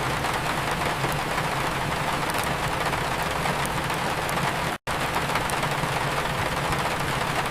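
Steady rain mixed with the scattered crackle of a wood fire in a fireplace, over a low steady rumble. The sound cuts out for an instant about two-thirds of the way through.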